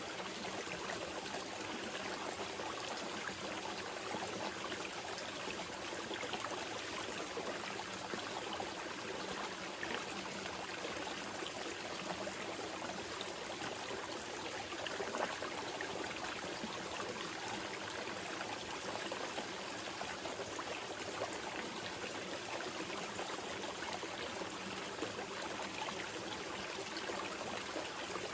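Small mountain river flowing steadily over rocks: a continuous rushing babble with fine splashing and trickling detail.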